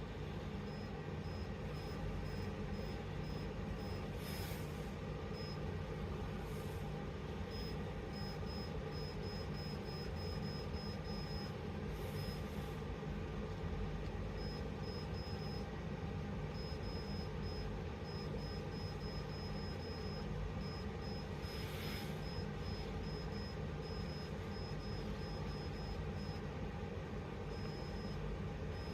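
Cool-mist humidifier running on its high mist setting: a steady low hum, with a faint high-pitched tone that keeps cutting in and out and a few soft hissy swells.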